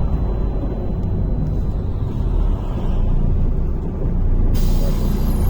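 Low engine and road rumble inside a MAZ-103 city bus. About four and a half seconds in, a sudden hiss of compressed air starts from the bus's pneumatic system.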